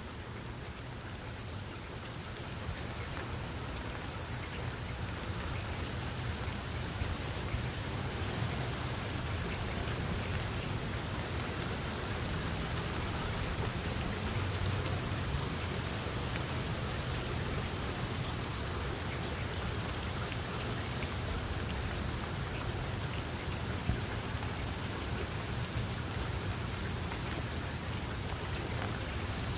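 Steady rain falling on open ground, with a low rumble underneath. It grows a little heavier over the first few seconds, then holds steady.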